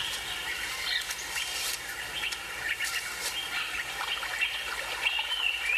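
Birds chirping and calling, many short overlapping calls at once.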